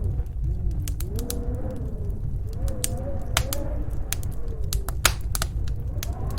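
Wood fire crackling in a fireplace, with irregular sharp pops, over a steady low rumble of snowstorm wind and a wavering, howling tone.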